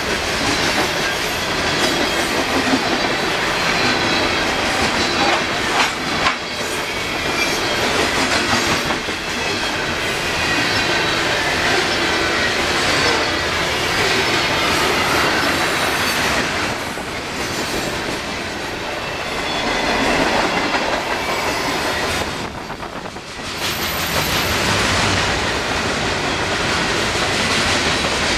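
Freight train cars rolling past with a steady clatter of wheels over the rails, mixed with high squealing from the wheels.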